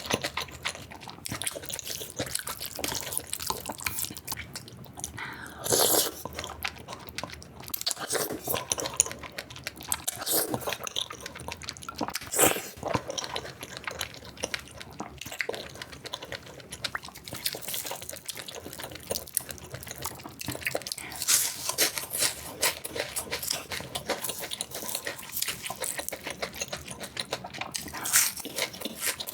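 Close-miked eating sounds, sped up: wet chewing, lip smacks and slurps with some crunching, in a dense run of irregular clicks and a few louder wet bursts.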